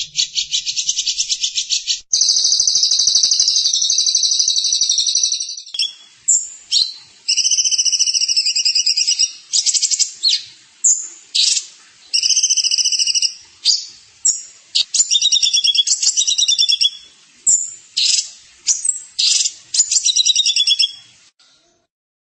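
A songbird singing loudly in fast, high trills: first a long buzzing trill, then repeated short chirping phrases broken by sharp notes. The song stops about 21 seconds in.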